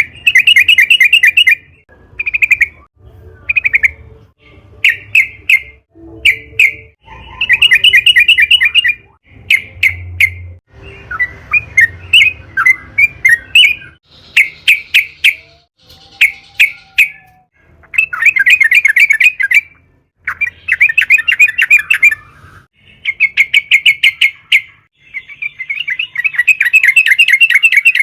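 Yellow-vented bulbul (trucukan) singing: repeated bursts of fast, bubbling chattering notes, some short and some running on for about two seconds, with brief pauses between.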